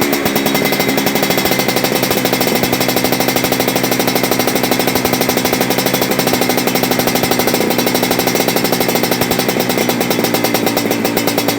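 Vespa scooter engine idling through an aftermarket racing exhaust, a loud, steady, fast even pulsing from the pipe.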